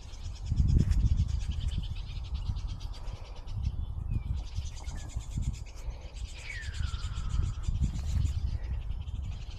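Wind buffeting the microphone in gusts, over a high, rapid chirring, with a single falling call about two-thirds of the way through.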